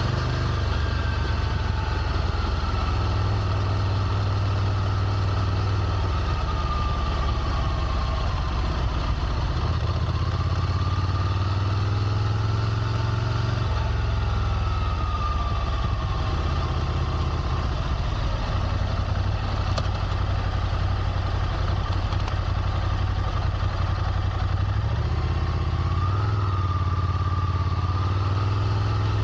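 Ducati Scrambler Nightshift's air-cooled 803 cc L-twin engine idling steadily, a low even rumble.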